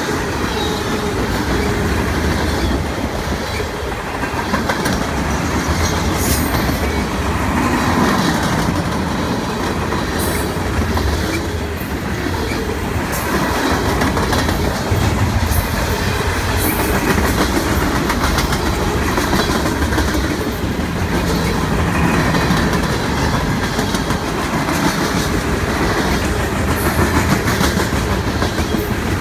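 Freight cars (tank cars, a centerbeam flatcar and covered hoppers) rolling steadily past at close range: a constant low rumble of wheels on rail with clickety-clack over the joints and occasional sharp clicks.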